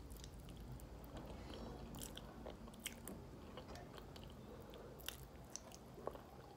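A person chewing and biting chicken eaten by hand, with faint wet mouth clicks and smacks scattered through.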